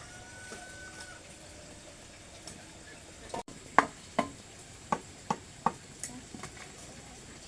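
A series of six sharp knocks, about two a second, in the second half.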